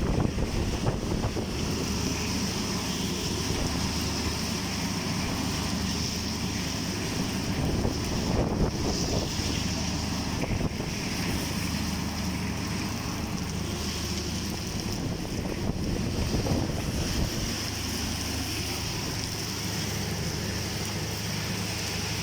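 Heavy rain falling steadily, with wind rumbling on the microphone and swelling in gusts a couple of times.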